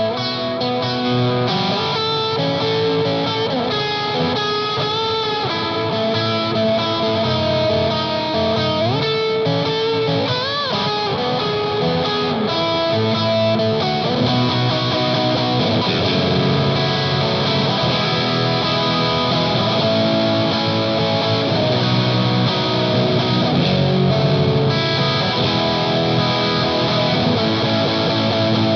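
Electric guitar overdriven through an EarthQuaker Devices Palisades pedal on Gain A with its boost on, with delay and reverb added. Sustained lead notes with string bends about ten seconds in, then busier, fuller playing through the second half.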